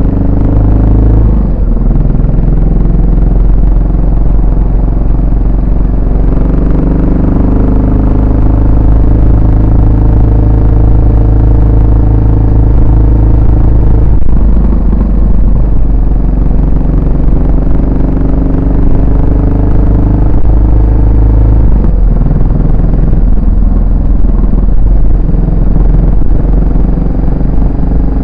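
Yamaha SR400's single-cylinder four-stroke engine and exhaust while riding, a strong low engine note that holds steady for stretches and changes pitch several times.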